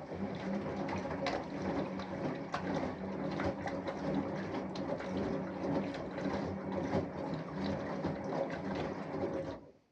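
Samsung Eco Bubble front-loading washing machine in its wash phase: the inverter-driven drum turns for several seconds with a steady hum, while water and laundry slosh and splash irregularly. It stops abruptly near the end as the drum pauses.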